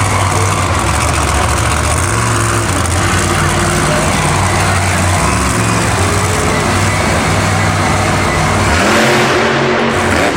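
Monster truck engine running loud, its pitch rising and falling as it is revved. Near the end the low note drops away and a rev climbs again.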